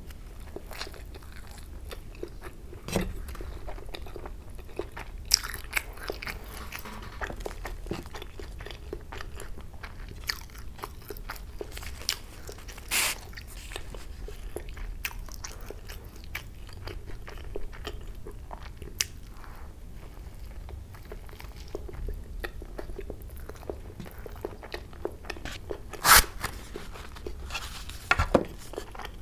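Close-miked biting and chewing of a chicken seekh roll, with moist mouth sounds and small clicks throughout. A few louder sharp crackles stand out, the loudest near the end.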